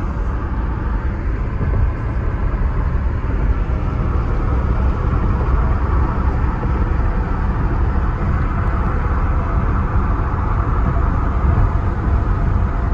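Steady road and engine noise of a car driving along, heard from inside the cabin as a constant low rumble.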